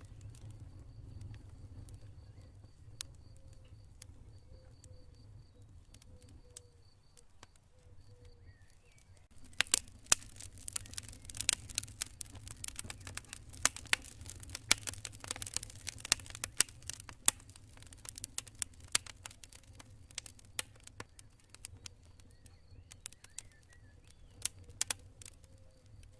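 Campfire burning, the wood crackling and popping with sharp snaps that come thick and fast from about ten seconds in. During the first several seconds a cricket trills in steady pulses behind it.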